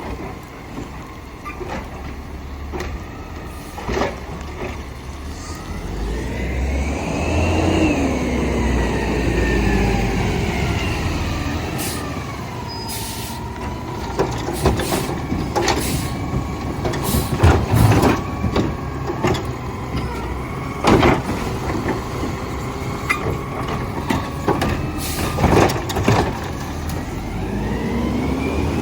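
Garbage truck working a load: its engine and hydraulics whine, rising and falling in pitch, with a run of metal clanks and bangs in the middle as the heavy trash is handled.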